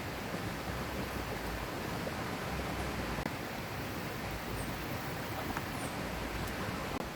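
Steady rush of a river flowing over stones, with a momentary break about three seconds in.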